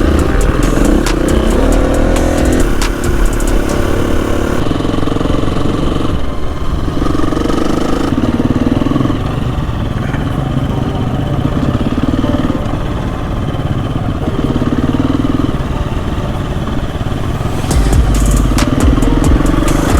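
Motorcycle engine running with the throttle opening and closing in spells. There is heavy wind rumble on the microphone near the start and again near the end, when the ride is faster and louder.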